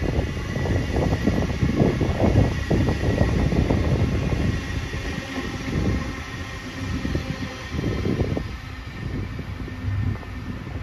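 Double-deck electric passenger train passing close by, its wheels clattering steadily over the rails, with a faint steady high whine. The clatter eases off about halfway through.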